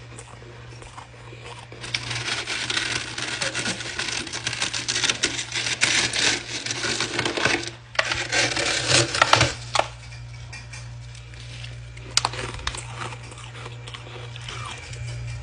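Ice being crunched, a dense run of crackling and crunching from about two seconds in until about ten seconds, then a few scattered cracks.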